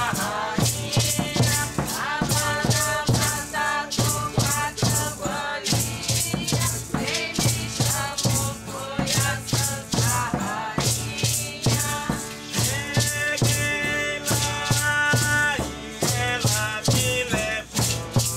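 Voices singing a shamanic chant, with hand rattles shaken in a steady rhythm and a regular low beat under them.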